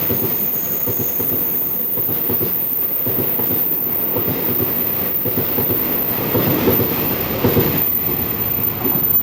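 Train running past on the rails: a steady rumble of wheels on track, with a thin high whine that fades out about a second in.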